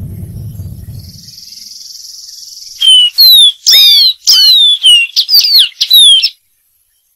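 Dark-throated seedeater singing: a quick run of about eight loud, clear whistled notes, mostly falling slurs, starting a few seconds in and stopping abruptly. A low rumble fades out in the first second.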